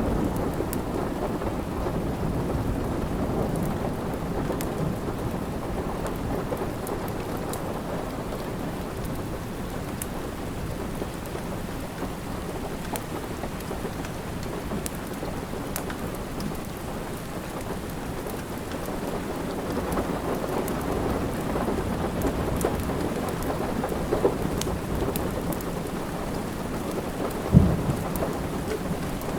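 Steady rain with low rolling thunder that swells at the start and again past the middle, with scattered small fireplace crackles. A single sharp pop near the end.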